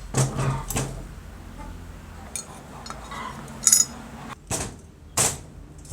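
Metal parts and tools clinking and knocking together in a series of separate sharp strikes, three close together at the start and more spread out after, one ringing briefly.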